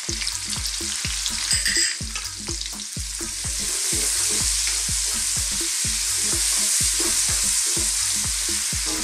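Sliced onions with ground allspice, thyme and black pepper sizzling in hot oil in a wok while being stirred with a wooden spoon, with a steady run of low knocks from the stirring. The sizzle swells louder about three and a half seconds in.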